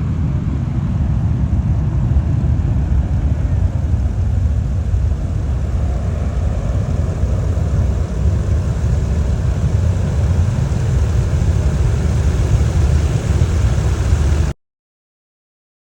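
Embraer KC-390's twin IAE V2500 turbofan engines at takeoff power: a loud, steady, deep rumble with a broad hiss above it. It cuts off suddenly about fourteen and a half seconds in.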